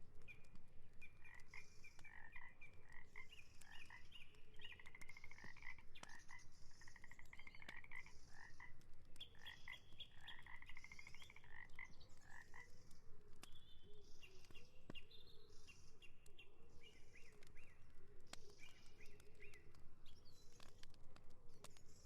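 Frogs calling: many short, rapidly pulsed croaks, densest in the first half. A faint high chirp repeats about once a second throughout.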